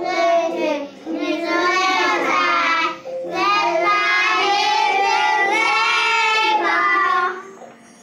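Children singing a song in English, in two long phrases with a short break about three seconds in; the singing stops a little after seven seconds in.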